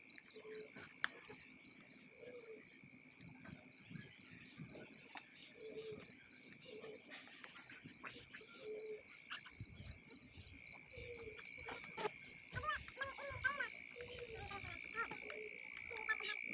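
Insects, crickets among them, chirping steadily in high pulsing trills, with short animal calls repeated every second or so. Near the end comes a quick run of rising-and-falling calls.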